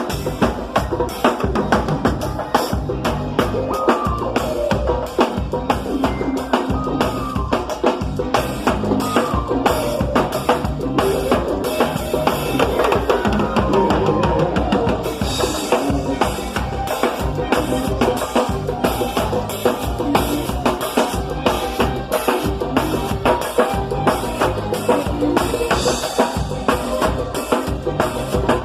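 Live band playing during a sound check, led by a drum kit: a fast, steady beat of bass drum and snare with rimshots under a melody line, and cymbal crashes about fifteen seconds in and again near the end.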